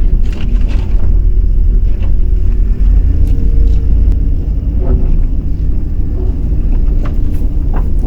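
Truck driving slowly, heard from inside the cab: a steady low rumble with a few short knocks scattered through it.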